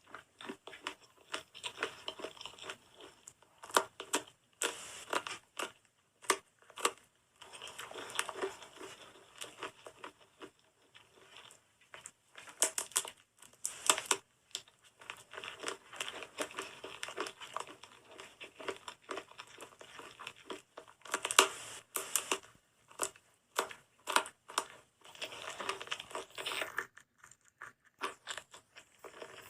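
Dry soap crunching and crumbling, with sharp crackles and clicks in irregular bursts and short quieter gaps, a soap-eating ASMR sound.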